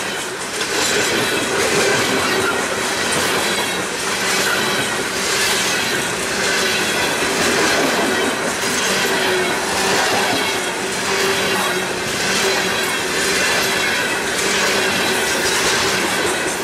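Coal train's loaded-type bathtub gondola cars rolling past close by: a steady rumble and rattle of steel wheels on the rail, with a clatter swelling about every two seconds as each set of trucks goes by, over a faint steady ringing tone.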